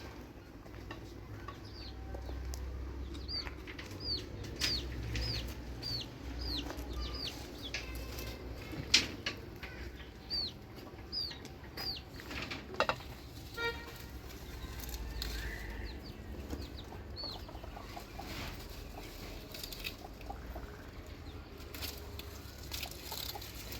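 Birds chirping in short, high, repeated calls, densest in the first half, with scattered clicks and knocks and a steady low rumble underneath.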